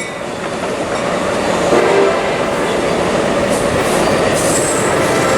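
Amtrak Pacific Surfliner passenger train passing close by as it departs, wheels running on the rails and growing louder, with its horn sounding.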